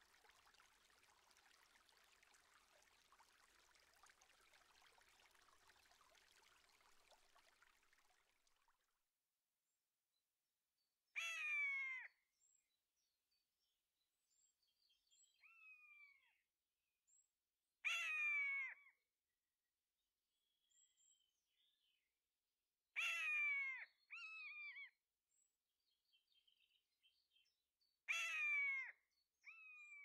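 A bird calling repeatedly: four loud calls, each a quick note that falls steeply in pitch, about five seconds apart, some followed by a quieter falling note. Before the calls, the faint trickle of a shallow woodland stream.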